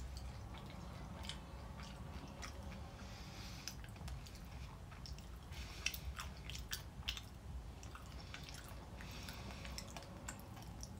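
A person quietly chewing a mouthful of white creme candy with popping candy, with scattered small clicks and crackles; the two sharpest come about six and seven seconds in.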